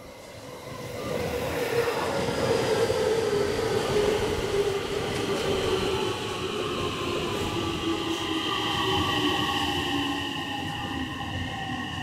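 Electric train running through a station. Its rolling noise swells up about a second in, and several whining tones from the train fall slowly in pitch over the following seconds.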